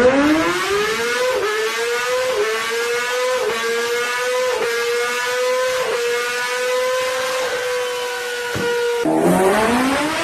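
Superbike engine at high revs. The pitch climbs over the first second, then holds high with brief dips about once a second. About nine seconds in it drops sharply and climbs again.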